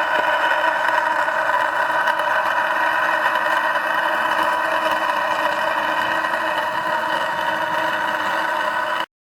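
Engine running steadily at a constant speed, a continuous mechanical drone that cuts off suddenly near the end.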